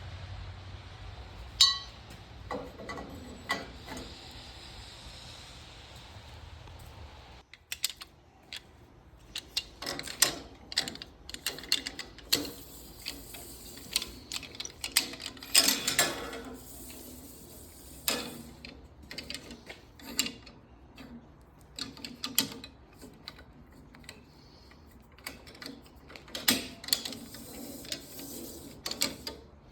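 Hand work on metal hardware: irregular sharp clicks, knocks and ratchet-like clatter. A steady low hum runs under the first several seconds and then stops abruptly.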